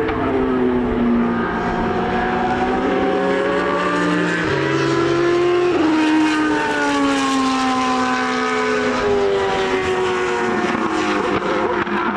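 Racing car engines running on a circuit, their pitch falling, then rising about four and a half seconds in, then falling away again as they change speed.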